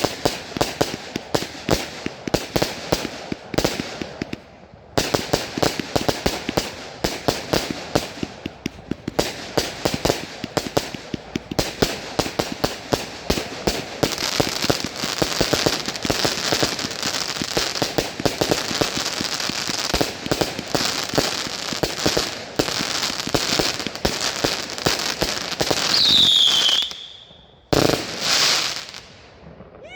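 Fireworks going off in a rapid string of sharp bangs and crackles, several a second, thickening into a dense continuous crackle about halfway through. Near the end a whistle glides down in pitch and holds briefly, followed by a couple of louder bursts.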